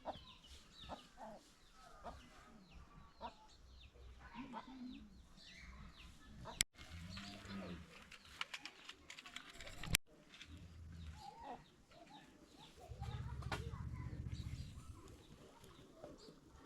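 Village chickens clucking among scattered short bird calls, with two sharp clicks partway through and a low rumble near the end.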